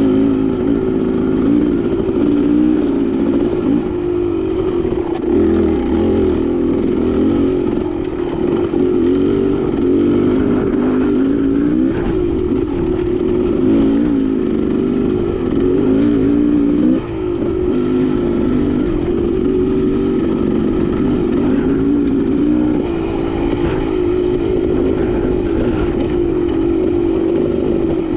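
Dirt bike engine running continuously under constantly changing throttle, its pitch wavering up and down, with a brief sharp drop in revs about two-thirds of the way through.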